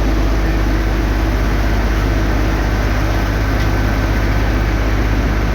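A vehicle engine running steadily and loud, with a deep, fast, even pulse and a thin, steady higher whine from about two seconds in.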